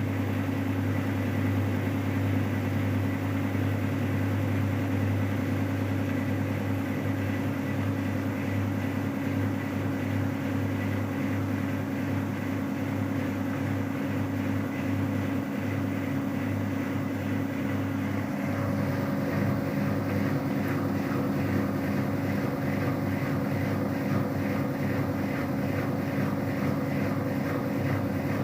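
Whirlpool FCSR90425 washing machine spinning at 600 rpm with an unbalanced load: a steady motor and drum hum with a fast, even pulsing. About two-thirds of the way through the sound shifts, with a new steady higher tone coming in and the hiss fading.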